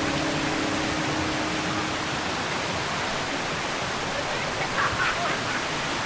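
Glade Creek's rushing water, a steady even rush.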